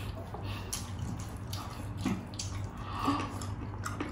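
Wet chewing and lip-smacking of people eating with their hands, in scattered soft clicks and squelches, over a steady low hum.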